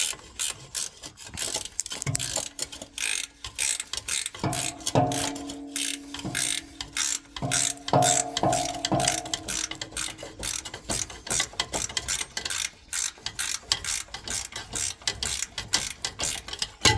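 Ratchet spanner clicking rapidly as it winds undone the clamp bolt that holds an exhaust front pipe to the gearbox. About halfway through, a run of ringing metallic knocks.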